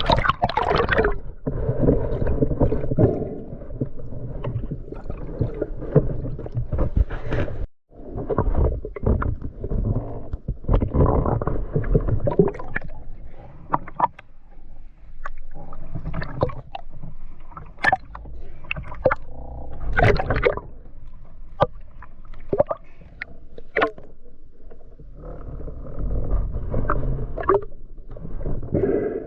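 Water sloshing and gurgling, with frequent sharp clicks and knocks and a brief drop-out about eight seconds in.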